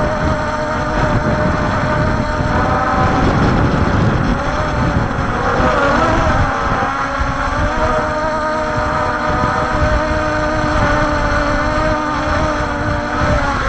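Walkera Scout X4 quadcopter's motors and propellers whining in flight, the pitch wavering up and down as the motors correct against strong wind. Heavy wind rumble on the microphone underneath.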